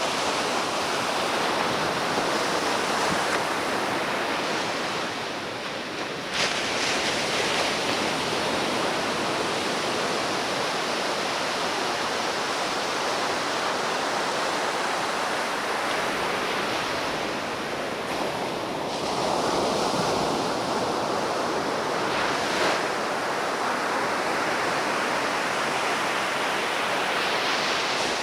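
Ocean surf washing onto a beach: a continuous rush of noise that swells and eases as the waves come in, from a swell running.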